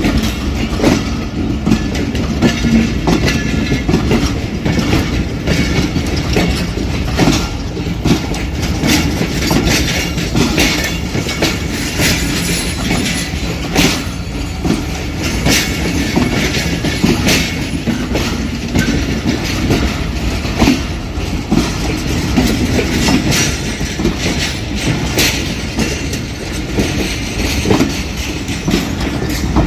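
A train's coaches rolling past on the rails, a steady rumble with a stream of irregular wheel clicks and clacks over the rail joints.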